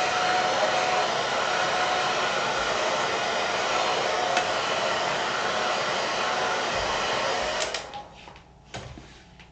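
Hair dryer blowing steadily on saddle-soaped leather boots to dry them, switched off about three-quarters of the way through; a few light clicks of handling follow.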